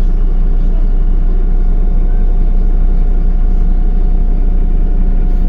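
Steady engine and running-gear rumble of a MAZ-105 city bus, heard from inside the cabin, with a faint steady whine over it.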